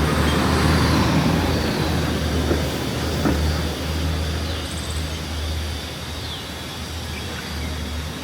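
Street traffic: the rumble of passing vehicles and road noise, loudest in the first few seconds and then easing off.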